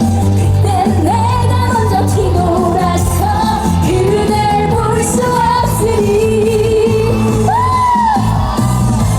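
Female vocalist singing a trot song over a loud amplified backing track with a steady bass beat, holding long notes and swooping up and down in pitch near the end.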